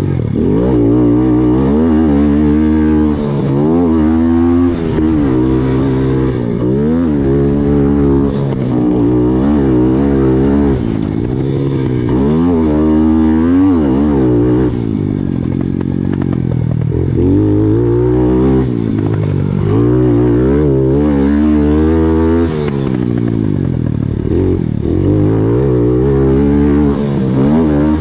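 Pit bike engine ridden hard, its pitch climbing and dropping every second or two as the throttle is opened and shut and the bike shifts gears.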